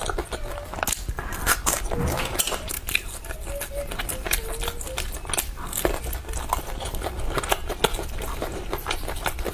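Close-up eating sounds: chewing and crunching fried skewered food (炸串), with many sharp crackles from the crisp coating.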